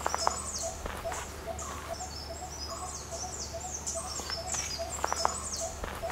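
Birds chirping, with many short high calls overlapping, over a low steady hum and a fast, evenly pulsing note. A few sharp clicks come soon after the start and again about five seconds in.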